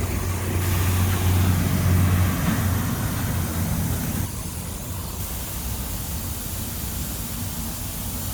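A motor vehicle's engine running nearby: a steady low hum, loudest in the first few seconds, dropping off about four seconds in and leaving a steady background noise.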